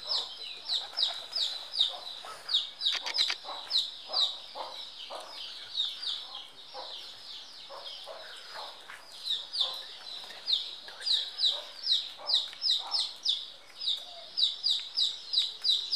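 Birds calling: a rapid run of high, downward-sliding chirps, about three to four a second, over softer lower clucking calls. The chirping thins out for a few seconds in the middle and picks up again.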